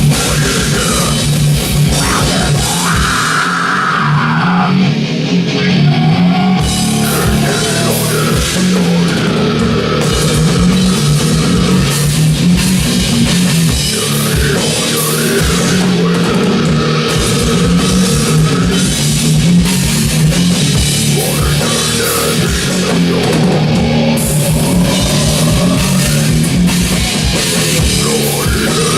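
A heavy metal band playing live, with electric guitars and a drum kit, loud throughout.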